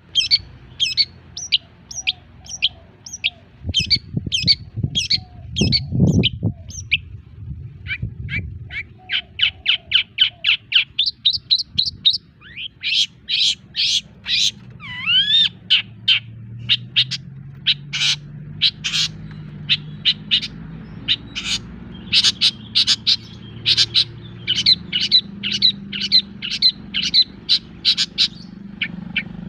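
Long-tailed shrike (cendet) calling in fast series of short, sharp notes, often two or three a second and quicker in places, with a few gliding notes about halfway through. A louder low rumble sounds between about four and seven seconds in.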